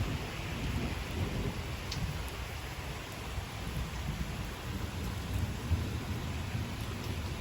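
Steady rain falling, with a low, uneven rumbling underneath.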